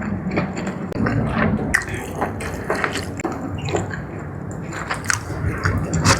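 Close-miked eating of jumbo squid in spicy sauce: wet, squishy chewing and biting with many irregular small clicks and smacks.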